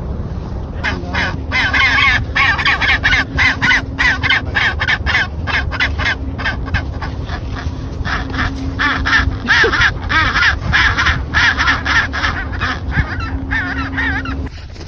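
Penguin colony calling: many harsh, pitched squawking calls overlapping one after another. They start about a second in and stop shortly before the end. A steady low hum runs underneath.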